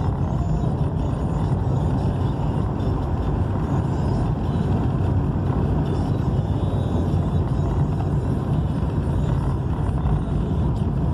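Steady vehicle driving noise: engine and road rumble while under way, even and unbroken.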